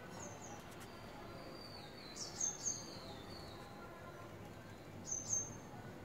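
Small birds chirping in short, high notes: a quick group of chirps about two seconds in and another about five seconds in, over a faint steady outdoor background.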